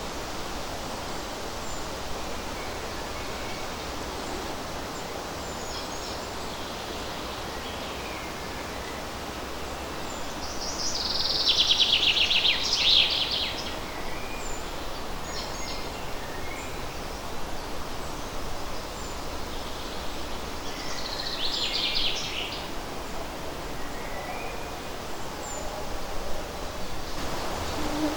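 A light breeze rustling the leaves of a forest as a steady hiss, with songbirds calling. Two loud, fast trilling song phrases come about eleven seconds in and again about twenty-one seconds in, with faint scattered chirps between them.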